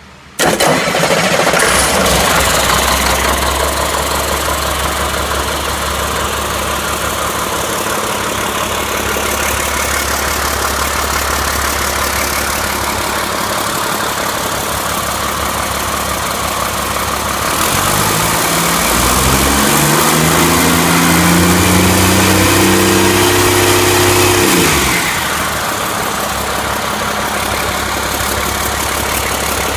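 2008 Caterpillar C7 ACERT inline-six diesel engine starting suddenly about half a second in and settling into a steady idle. After a while it is revved up, held at higher speed for several seconds, then drops back to idle. It runs evenly, as a good-running engine.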